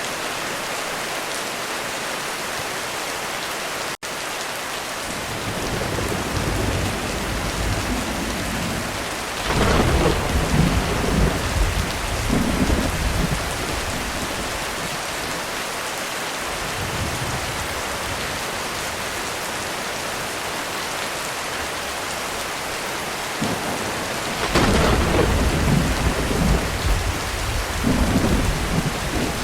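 Heavy rain falling steadily on a roof, with thunder. A low rumble builds from about five seconds in, a loud thunderclap near ten seconds rolls on for a few seconds, and another loud peal comes near twenty-five seconds. There is a split-second gap in the rain sound about four seconds in.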